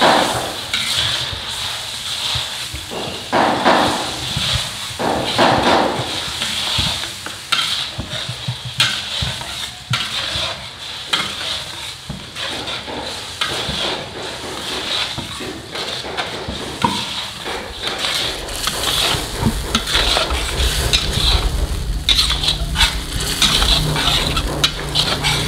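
Blended chili spice paste sizzling as it is sautéed in a stainless steel wok, with a metal spatula stirring and scraping against the pan in repeated strokes.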